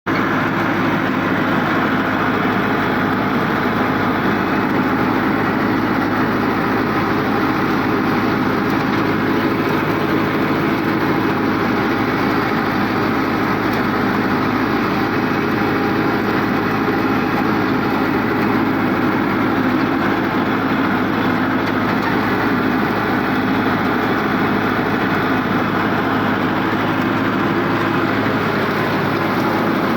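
Tractor engine running steadily at a constant speed, with no revving or change in pitch.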